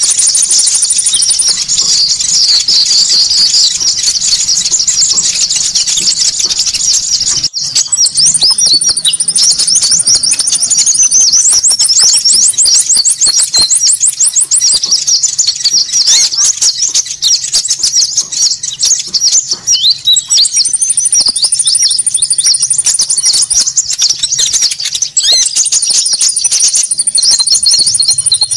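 Bird-lure recording of many konin birds calling at once: dense, rapid, high chattering calls, with thin high trills that come back every several seconds and a brief break about seven seconds in.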